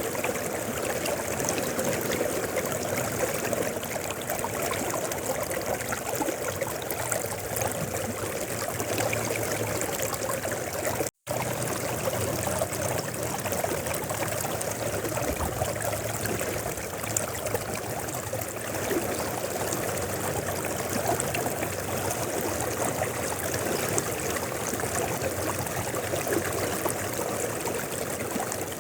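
A river stream flowing steadily over rocks, a continuous rushing and trickling of water. The sound cuts out completely for a moment about a third of the way through, then resumes unchanged.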